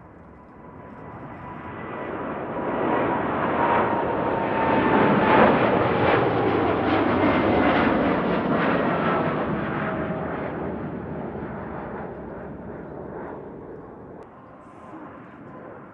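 Boeing 787-10 twin-engine jet airliner passing by. Its engine noise swells to a peak about five seconds in and then fades, and a whine falls in pitch as it goes past.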